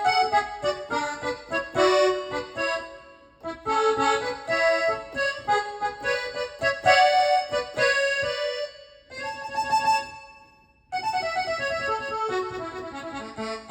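Gabbanelli button-accordion sample played on a Medeli AKX10 arranger keyboard: a melody of held reedy notes in phrases, with a brief break about eleven seconds in.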